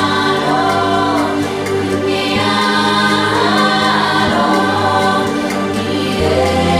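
Choir singing in harmony with musical backing: several voices holding sustained, slowly moving melodic lines over a steady low bass that changes note a few times.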